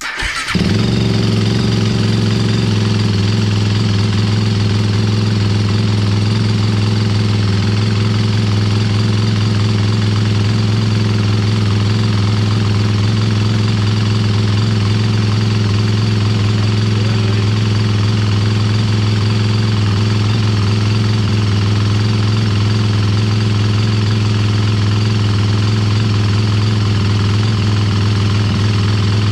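2021 Sherco 300 SEF Factory's single-cylinder four-stroke engine starting right at the beginning, then idling steadily to warm up with its fresh oil after an oil change.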